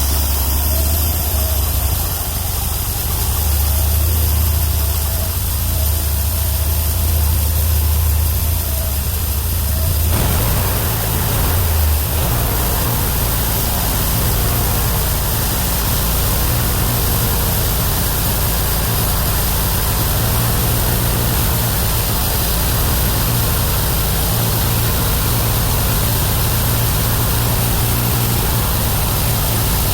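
Homemade bandsaw mill's 31 hp engine running steadily. About ten seconds in, its note rises and the sound turns fuller and harsher, then holds steady.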